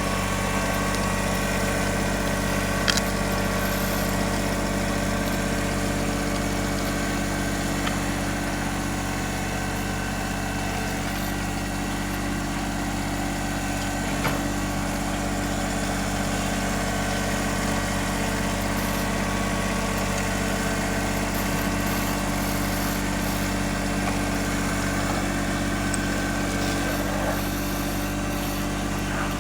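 John Deere 1026R compact tractor's three-cylinder diesel engine running steadily while pulling a plough through the ground. There are two brief knocks, about three seconds in and near the middle.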